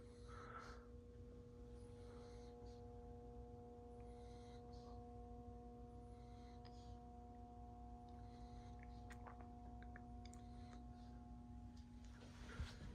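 Toastmaster ceiling fan's motor running with a faint, steady hum, with a few light ticks about nine seconds in.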